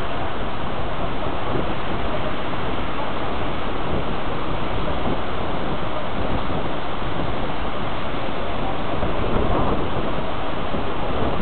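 Steady rushing noise of wind buffeting the microphone, mixed with beach surf.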